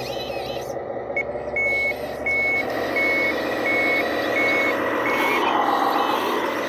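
Heavy equipment's reversing alarm beeping about seven times, evenly spaced, over a running diesel engine. Near the end the engine note rises and falls in a whine.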